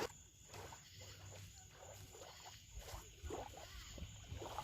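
Faint evening chorus of frogs calling in short repeated notes, about two a second, over a steady high insect drone.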